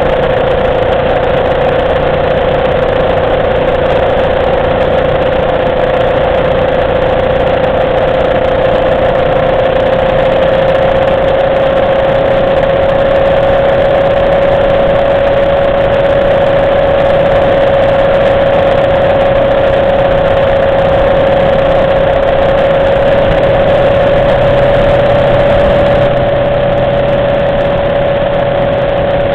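Motorcycle engine running at a steady speed, its drone holding one pitch that creeps slightly higher over the stretch, under a constant rushing hiss.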